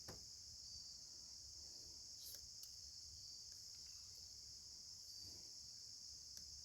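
Near silence: a faint, steady high-pitched hiss with a few faint ticks.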